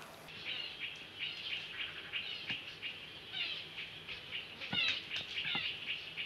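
Small birds chirping busily in quick repeated bursts, with a few soft knocks of hands working wet clay, the loudest about five seconds in.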